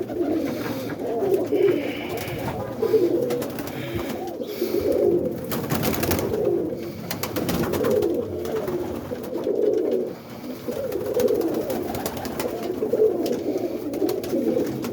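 Many roller pigeons cooing continuously in a small loft, their calls overlapping into a steady chorus, with scattered faint clicks and rustles.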